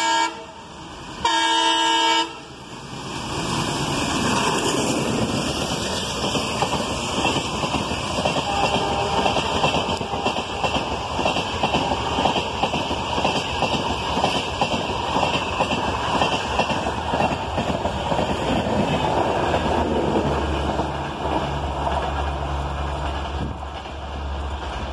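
A WDM 3D diesel locomotive's multi-tone horn ends a blast and then sounds once more for about a second. Its Humsafar passenger train then passes close by, with a steady rumble and wheels clattering over the rail joints.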